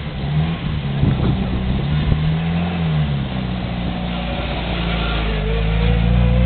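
Sunbeam rally car's newly fitted engine running and being revved, its pitch rising and falling, then climbing steadily near the end as it accelerates.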